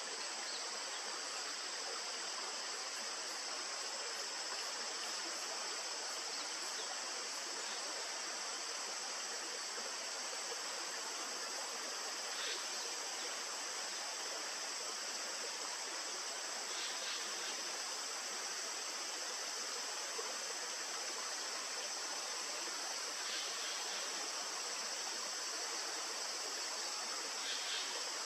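Steady rushing of a stream with a constant high insect chorus over it. A few faint short chirps come through now and then.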